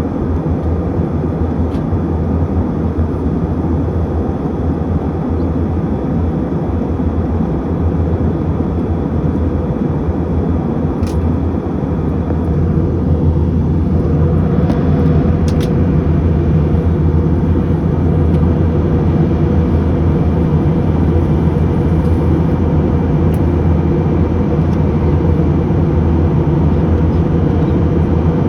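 Steady cabin drone of a UNI Air airliner, a dense low rumble with a constant engine hum, growing slightly louder about halfway through. A couple of faint ticks sound over it.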